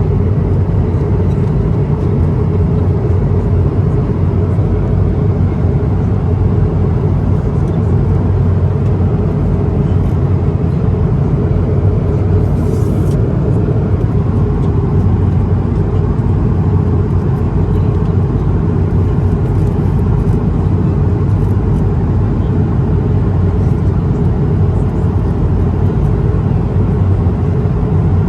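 Airbus A220-300 passenger cabin in flight: the steady low drone of airflow and the Pratt & Whitney PW1500G turbofan engines, unchanging throughout.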